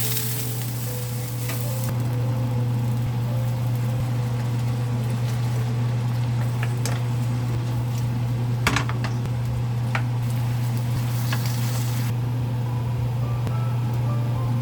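Food sizzling as it fries in a pan and is stirred, with a few sharp utensil clicks against the pan. The sizzle drops away about three-quarters of the way through.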